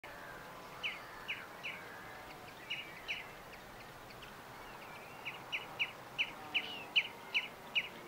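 A bird calling: short, sharp notes that slide downward, a few scattered in the first three seconds, then a steady run of about three a second that grows louder in the second half, over a faint steady outdoor hiss.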